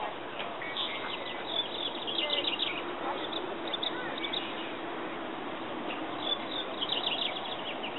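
Birds chirping in quick twittering runs, about a second in and again near the end, over a steady background hiss.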